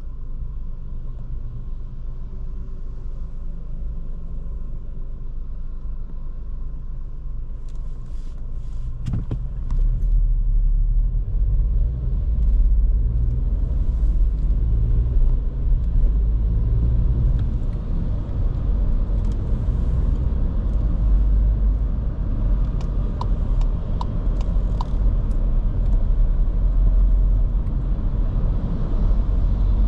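Škoda Kamiq's 1.0 TSI three-cylinder turbo petrol engine running, with road noise, heard from the driver's seat while driving. The low rumble grows louder about ten seconds in, with a few light clicks scattered through it.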